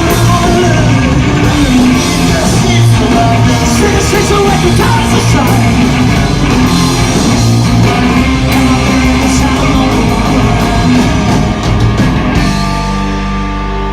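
Live punk rock band playing loud, with distorted electric guitars, drums and shouted singing. About twelve seconds in the full band drops away and a held chord rings out.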